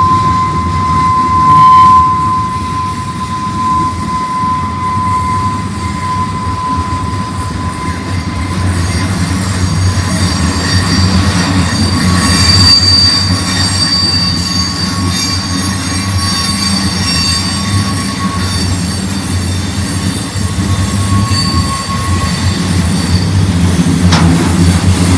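Freight train rolling slowly past with a steady low rumble, its steel wheels squealing against the rails in long, held high tones: once at the start, fading out, and again through the middle.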